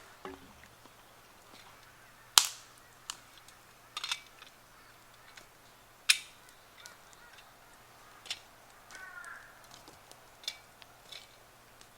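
Burning campfire wood cracking and popping: a handful of sharp, separate pops spread irregularly over several seconds, the loudest about two seconds in.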